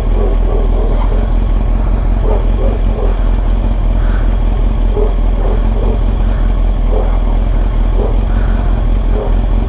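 Steady low rumble of a running vehicle, with faint voices coming and going over it.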